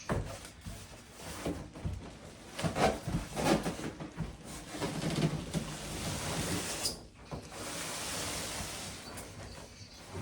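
Packaging being handled: irregular rustling and scraping with a few dull knocks, busiest in the first half.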